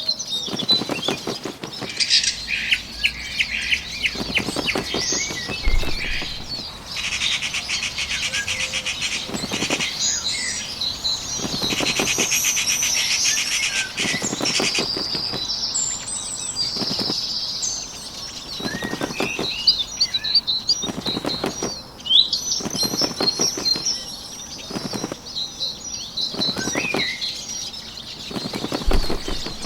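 Bird wingbeats in repeated fluttering bursts of a second or two each, over songbirds chirping and trilling.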